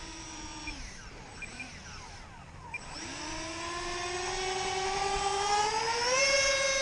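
Electric ducted fans of an RC Airbus A340 model airliner whining. The whine is steady, then winds down just under a second in. From about three seconds in it spools back up, rising steadily in pitch with a quicker step higher near the end, as the throttle is opened.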